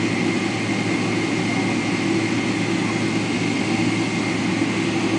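Boeing 777-300ER's GE90-115B jet engines running steadily, heard from inside the cabin as an even rushing noise with a low hum and a faint high whine.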